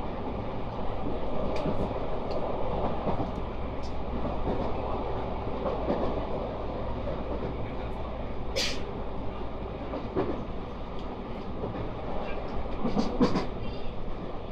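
JR West 223 series 2500 subseries electric train running at speed, heard from inside the car: a steady rumble of wheels on rail with scattered clicks. A short hiss comes about eight and a half seconds in, and a pair of louder knocks near the end.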